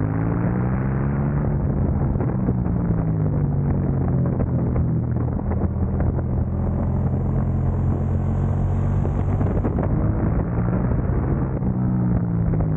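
KTM motorcycle engine heard on board at track speed. Its pitch falls over the first couple of seconds as the bike slows, then holds fairly steady, dipping and rising again near the end.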